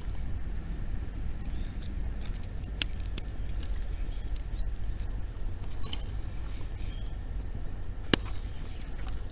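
Wood fire crackling with scattered small ticks and two sharp pops, about three seconds in and near the end, over a steady low rumble.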